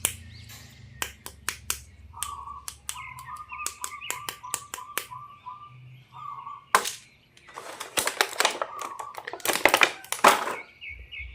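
Sharp clicks and crinkling of plastic toy packaging being handled and opened, with a faint chirping trill behind.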